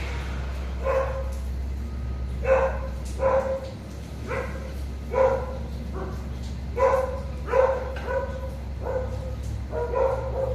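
A dog barking over and over, a dozen or so short barks at irregular intervals of roughly a second, over a steady low hum.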